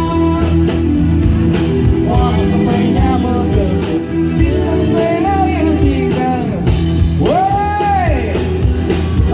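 Live band playing a rearranged Taiwanese song with a steady rock beat between sung lines, a melodic lead swooping up and down in arches near the end.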